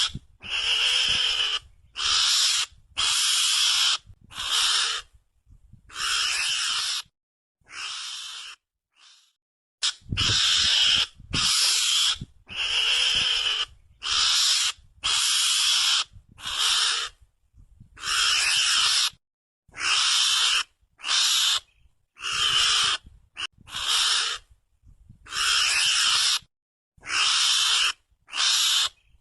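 Recorded mongoose (garangan) lure call: a long series of harsh, scratchy calls, each under a second, separated by short silent gaps, with a longer pause partway through.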